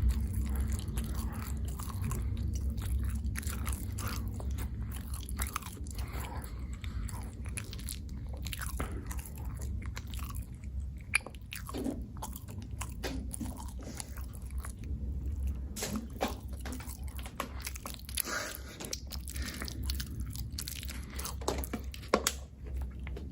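A person eating into a close microphone: chewing and biting food, with many short sharp clicks scattered throughout.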